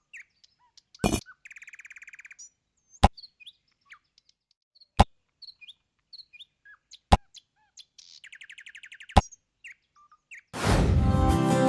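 Birds chirping, with a buzzy trill twice and a sharp click about every two seconds. Acoustic guitar music starts near the end.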